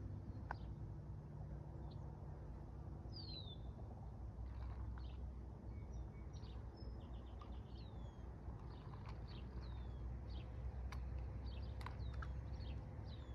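Small birds chirping: short, high calls that slide downward, repeated every second or so from a few seconds in. Under them is a low, steady outdoor rumble, with a couple of faint clicks near the end.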